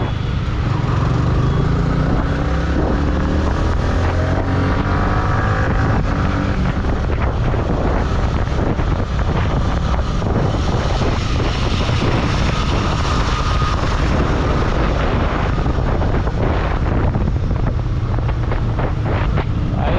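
Motorcycle engine running on the move, its pitch climbing in the first few seconds, with wind buffeting the microphone.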